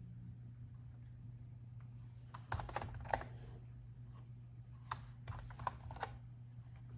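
Laptop keyboard being typed on in two short bursts of keystrokes, one about two and a half seconds in and another about five seconds in, over a low steady hum.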